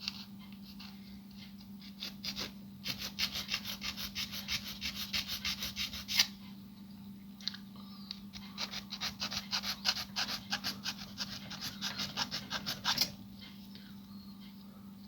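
Hand file rasping on a hardened plastic-weld repair piece in quick back-and-forth strokes, about five a second, in two spells with a pause about six seconds in. The piece is being filed down because it is a bit tight a fit.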